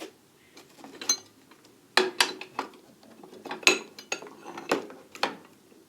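Small metal tools clinking and clattering against one another as they are rummaged through in a toolbox drawer, a string of irregular knocks, some with a short metallic ring.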